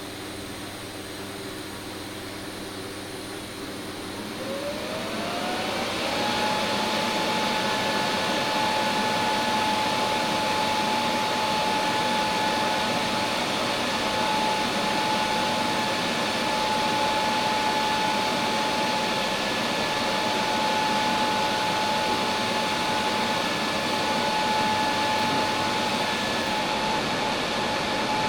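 An electric power tool motor spins up about four seconds in, its whine rising in pitch, then runs at a steady high whine with a loud hiss.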